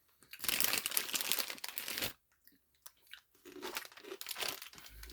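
Crinkling of a plastic snack bag of Kurkure corn snacks for about a second and a half, followed near the end by softer crunching and chewing of the snack.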